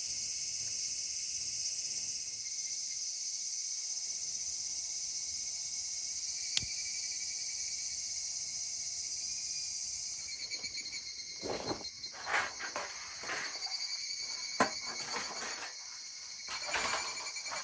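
Night insects trill steadily in a high, continuous chorus while a wood campfire burns, with a single sharp pop about six seconds in. From about ten seconds the fire crackles and pops irregularly over the insect chorus.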